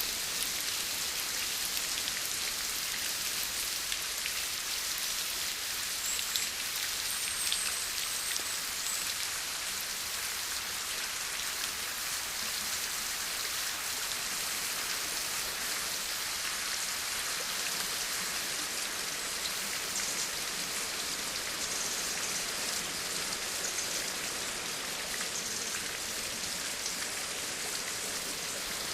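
Steady rain falling: an even, continuous hiss of many raindrops landing on a surface.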